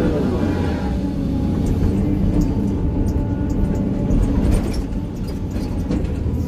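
Excavator's diesel engine and hydraulics running steadily, heard from inside the operator's cab, with a few light knocks about halfway through.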